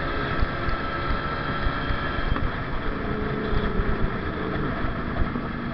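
Kawasaki Ninja 150 RR's single-cylinder two-stroke engine running while riding, with wind rush on the microphone; the engine note drops lower about halfway through.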